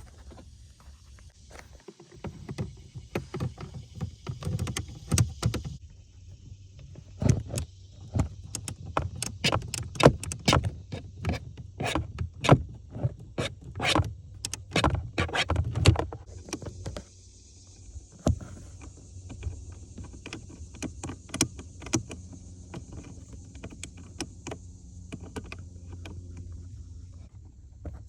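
Irregular clicks and knocks of a hand ratchet and hard plastic parts being worked in a tight space, busiest in the middle, over a low steady hum.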